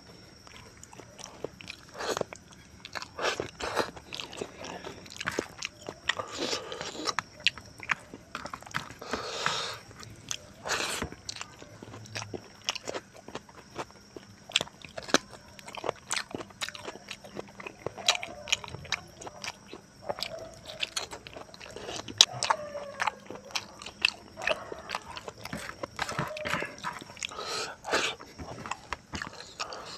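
Close-miked eating sounds: a person chewing mouthfuls of rice and pork rib curry, with many short wet clicks and smacks of lips and mouth.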